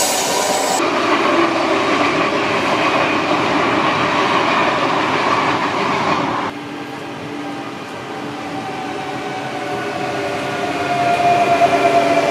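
Double-deck electric TER train rolling past with a steady rush of wheel and running noise that shifts abruptly twice. After about six and a half seconds, an arriving train's whine of several tones grows steadily louder, slowly dropping in pitch as the train slows into a station.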